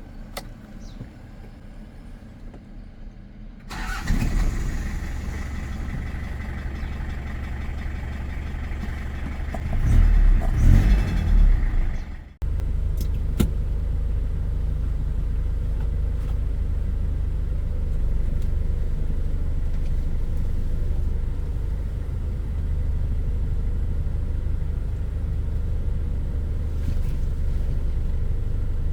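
Toyota Hilux Mighty-X pickup engine. It starts about four seconds in and then runs steadily with a low drone. It gets louder for a couple of seconds around ten seconds in, breaks off for an instant just after twelve seconds, then carries on steadily.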